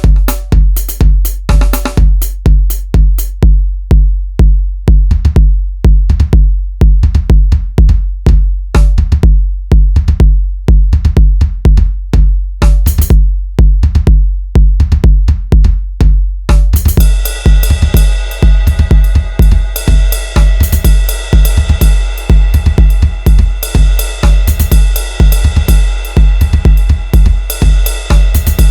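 Electronic drum machine beat: a deep, booming kick drum about twice a second with short clicking hits over it. About two-thirds of the way through, a dense sustained synth layer comes in over the beat.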